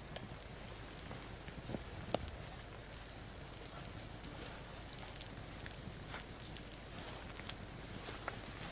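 Ajillo sizzling in olive oil in a cast-iron skillet over a wood campfire: a steady hiss dotted with irregular crackles and pops, one sharper pop about two seconds in.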